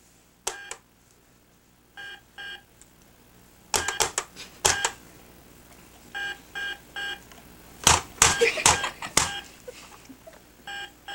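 Short electronic beeps in groups of two to three, each a brief steady tone, with sharp clicks and knocks between the groups.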